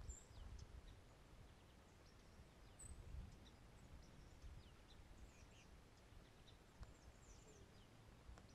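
Near-silent lakeside ambience: faint, short, high bird chirps scattered throughout, over a low rumble.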